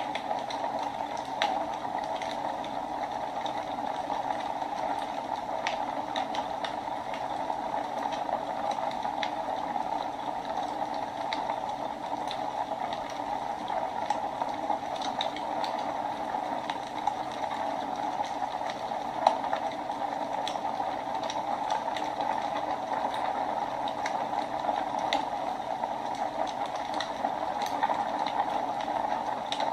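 Wood fire burning in a fireplace: a steady hiss with irregular crackles and pops, one sharper pop about nineteen seconds in.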